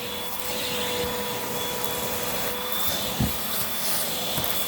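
Hoover WindTunnel 2 Rewind upright vacuum cleaner running steadily, a rushing hiss with a steady motor whine, and a dull knock about three seconds in.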